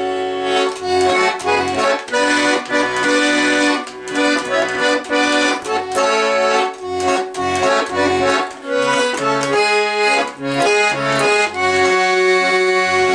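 Accordion playing an instrumental introduction: a melody over a pulsing bass-and-chord accompaniment.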